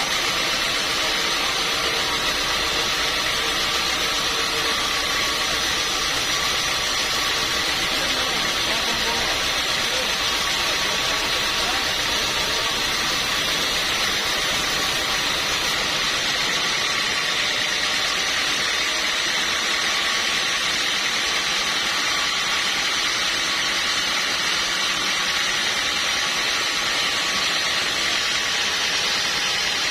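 Sawmill machinery running steadily, a constant mechanical drone with a high, hissing edge and no clear breaks.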